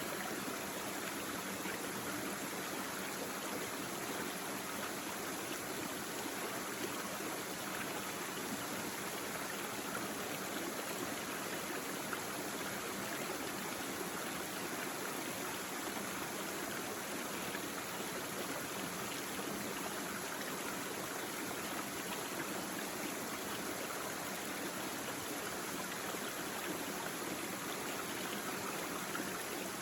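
Small brook babbling steadily, water running over stones in an even, unbroken rush.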